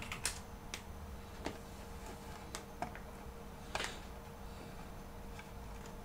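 A handful of scattered, separate clicks at a computer, mostly in the first four seconds, over a steady faint hum.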